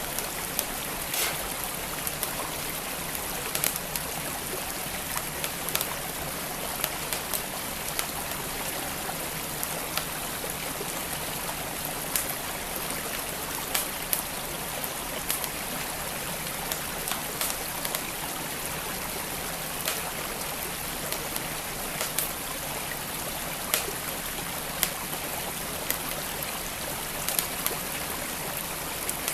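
Wood fire crackling in a fireplace, with irregular sharp pops and snaps, over the steady rush of a flowing stream.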